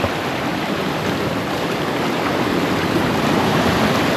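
Steady rush of ocean surf washing in over shoreline rocks on a strong high-tide current.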